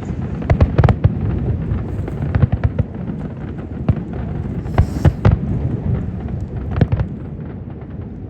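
Fireworks display: a rapid, irregular series of aerial shell bursts, sharp bangs and cracks over a continuous low rumble, with clusters of louder bangs about half a second in, near the middle and a little after.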